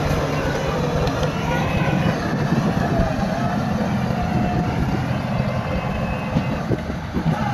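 Heavy earthmoving machinery running steadily: diesel engines working with a dense low rattle and clanking, and a few sharper knocks near the end.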